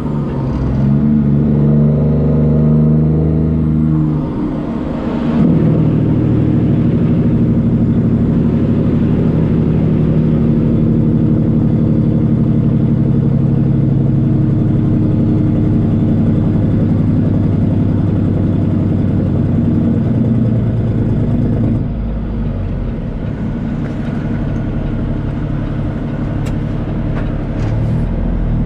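Diesel semi-truck engine running while driving: a steady engine drone that dips and changes pitch about five seconds in, runs on strongly, then eases off to a lower, quieter level a little past the two-thirds mark.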